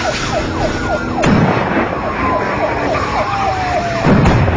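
Police sirens: one slow wail rising and falling while a second siren yelps rapidly, about four sweeps a second, over vehicle noise. Two sharp thumps break in, about a second in and near the end.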